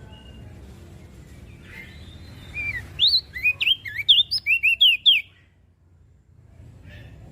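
Crested white-eye (opior jambul) singing one quick phrase of about a dozen high, sliding notes, lasting about two and a half seconds, from a little before the middle. A low steady hum runs underneath.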